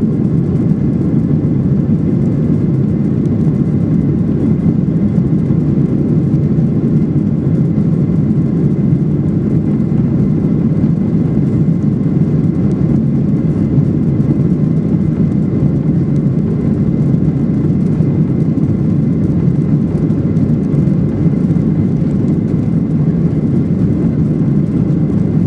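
Steady jet engine and airflow noise inside the cabin of a Boeing 737-800 with CFM56-7B engines, a constant low rush with a faint thin whine above it.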